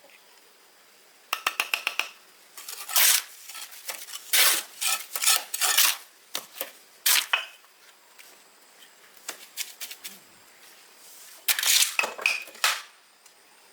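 Metal trowel scraping and clinking against brick and mortar. A quick run of light taps comes about a second in, then several bursts of scraping, and another cluster near the end.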